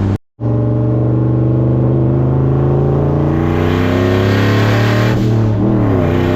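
Turbocharged 6.0-litre V8 in a C10 pickup running under way, its pitch climbing slowly as it pulls. A little over five seconds in, the pitch dips briefly and rises again.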